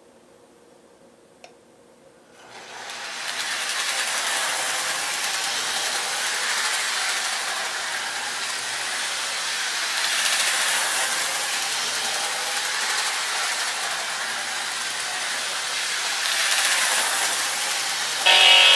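Lionel O-gauge Union Pacific NW2 switcher locomotive model starting up after a click and running steadily on its track, a continuous rushing motor-and-wheel noise. Right at the end a horn sounds as a chord of tones.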